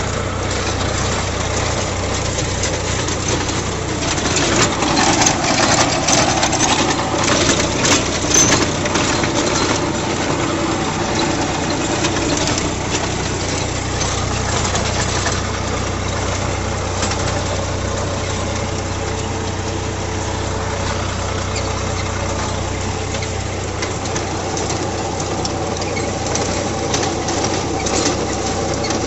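Swaraj 855 tractor's diesel engine running steadily with a rotavator. From about four to thirteen seconds in, sharp rattling clatters come through and the engine note sags and comes back up.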